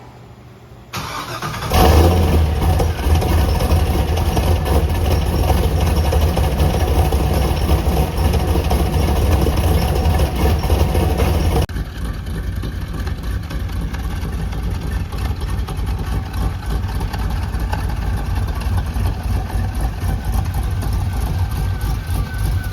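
Cammed LS1 V8 starting after about a second of cranking and then running steadily through modified BBK F-body headers into the stock C3 Corvette exhaust. About halfway through the sound drops abruptly to a lower level and the engine keeps running at idle.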